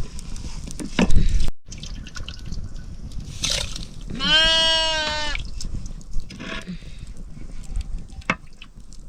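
A goat bleats once, a single call of about a second a few seconds in. A loud low thump comes about a second in, with scattered small clicks and knocks around it.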